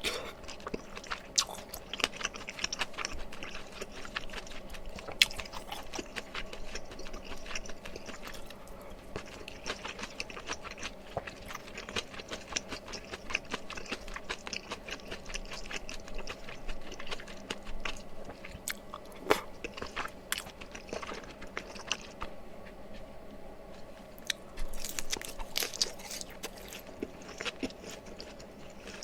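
Close-miked chewing of mala tteokbokki with wet, sticky mouth sounds. Irregular clicks and smacks come in quick runs with brief pauses between bites.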